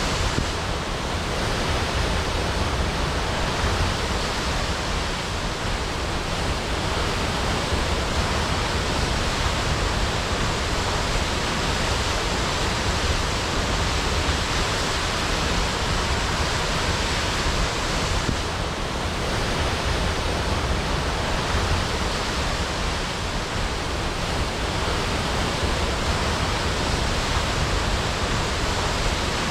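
Waterfall crashing: a steady, even rush of falling water that does not let up.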